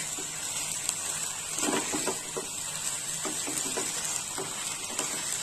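Chicken pieces in spiced onion masala sizzling steadily in hot oil in a pan, being stirred and turned with a spatula, with a few light scrapes against the pan.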